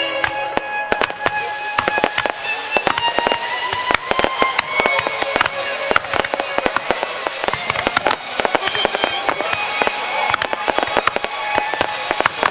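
Fireworks bursting in quick succession, a dense run of sharp bangs and crackles, with music playing underneath.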